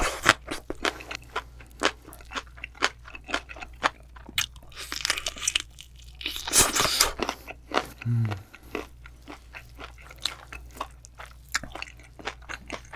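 Close-miked eating: a steady run of crisp crunching bites and chewing, with a few longer, noisier crunches around the middle and a brief low throat sound about eight seconds in.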